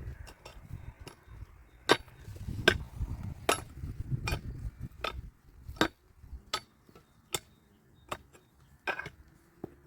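Sharp, regular strikes of a hand tool, about one every 0.8 seconds, with some low rumbling handling noise under the first half.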